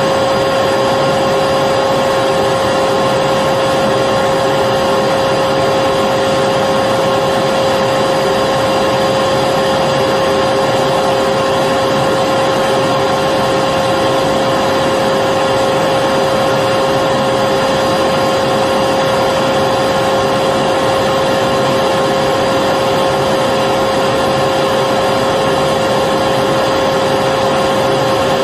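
Electric vacuum cleaner running continuously at a steady speed: an even rushing noise with a constant motor whine.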